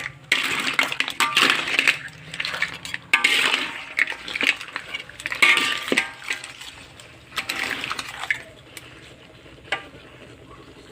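A metal utensil scraping and clattering against a pan full of shellfish in thick sauce, with shells clinking, in repeated strokes about once a second that stop about eight and a half seconds in.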